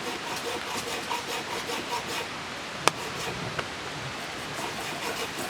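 Steady hiss of rain, with one sharp crack about three seconds in and a fainter tick just after.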